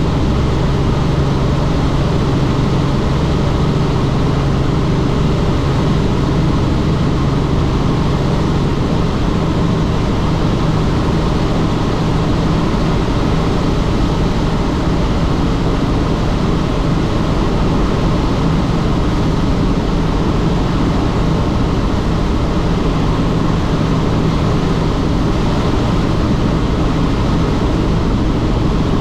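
Helicopter in flight: steady, loud rotor and engine noise with a low hum that weakens a little about nine seconds in.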